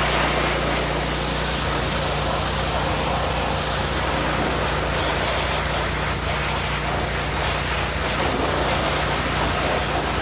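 Hot water pressure washer running steadily: the engine and pump drone under a continuous hiss of the high-pressure spray washing grease off equipment.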